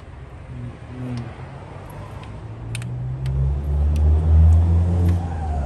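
A car passing by: a low rumble swells, peaks about four seconds in, then fades as its pitch falls away. A few light metallic clicks from hand tools sound over it.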